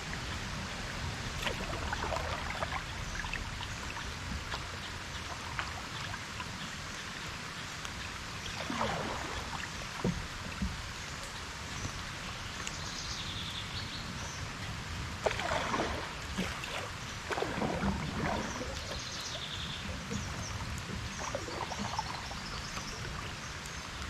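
Kayak paddle strokes swishing and splashing in the water, irregularly a few seconds apart, over a steady hiss of light rain.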